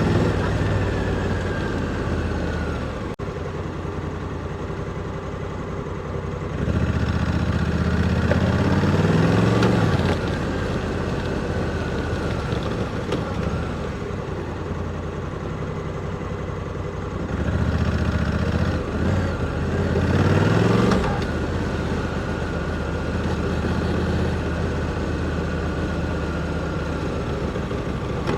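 Honda Africa Twin 1100's parallel-twin engine heard from onboard, running at low revs. Twice, about seven and eighteen seconds in, it accelerates, its pitch climbing and dropping back with each upshift before settling into a steady cruise.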